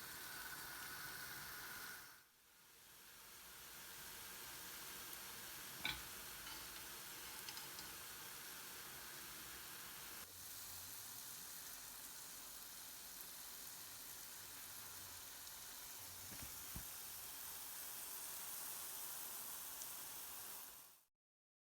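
Jalebi batter sizzling as it fries in hot oil, a steady hiss with a brief dip about two seconds in and a single sharp click near six seconds. It cuts off abruptly near the end.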